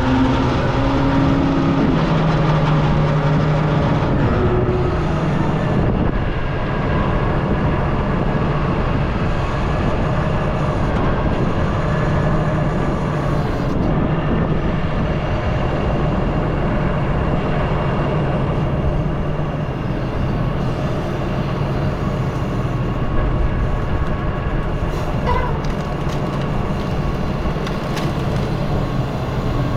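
Excavator's diesel engine running steadily as it works the grapple saw, with a constant low engine tone and higher steady whining tones above it.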